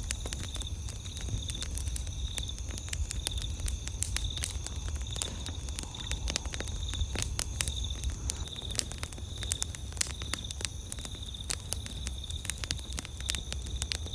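Wood campfire crackling, with frequent irregular sharp pops and snaps over a low rumble. Behind it, night insects chirp in a steady high pulsing trill.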